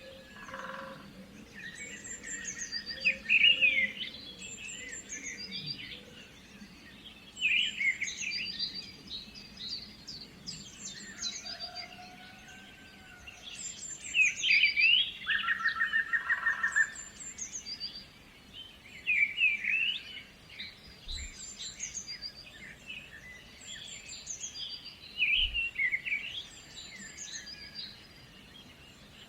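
Several songbirds singing, short high chirping phrases repeated every few seconds, with a rapid buzzy trill twice, about a second in and again midway.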